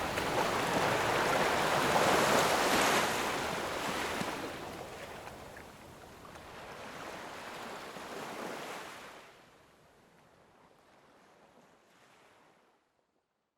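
Ocean waves washing onto a shore: a big surge of surf about two seconds in, a smaller one around eight seconds, then the sound fades out to nothing near the end.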